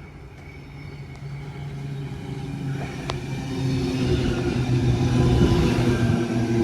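Sydney Trains Tangara electric train approaching, its steady hum and wheel rumble growing louder throughout.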